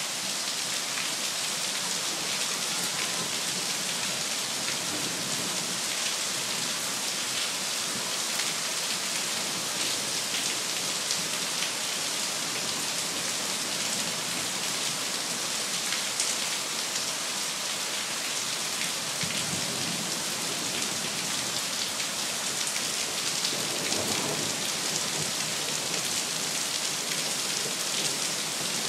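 Heavy rain pouring down steadily in a thunderstorm, a dense, even hiss of drops hitting the ground.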